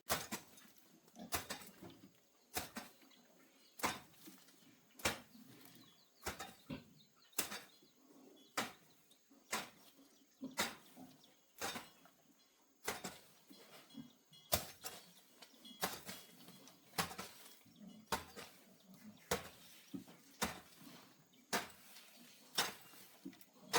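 A hand tool striking over and over in a steady work rhythm, about one sharp blow every second or so, with a few blows closer together.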